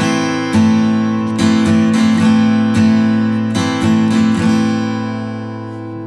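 Taylor Builder's Edition 324ce acoustic guitar strumming an open A minor chord in a one-bar pattern, about eight strokes, then the chord left ringing and slowly fading.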